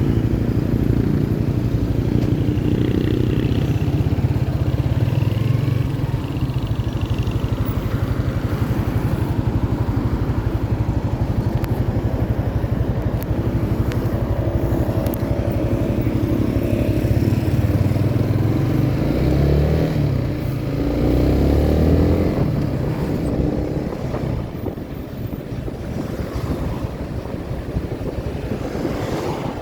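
Motorcycle engine running while riding. About two-thirds of the way through, the engine note rises and falls to its loudest, then the sound eases off a little.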